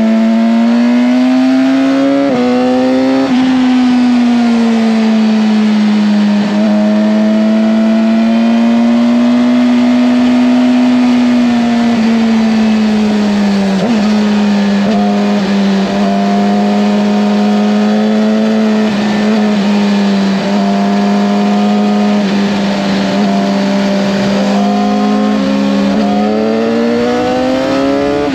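Race motorcycle engine running hard on track, its pitch rising and falling with the throttle and jumping abruptly at gear changes, over a steady rush of wind noise.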